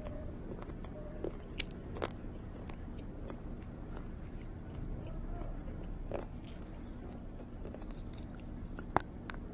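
A person biting and chewing hard, crunchy roasted cubes, with a few sharp crunches standing out, the loudest near the end, over a faint steady low hum.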